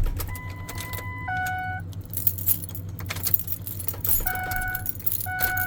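Keys jangling and clicking at the ignition of a Ford F-350 that won't start, as the truck's electronic warning chime dings: a two-note chime, then two more dings near the end. A steady low hum runs underneath. The truck is dead and needs a jump start.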